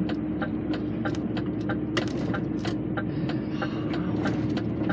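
Lorry engine heard from inside the cab, running steadily at low speed, with a regular ticking about three to four times a second.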